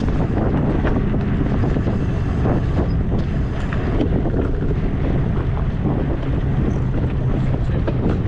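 Wind buffeting the microphone during an e-bike ride, over a steady low rumble with scattered short knocks and rattles.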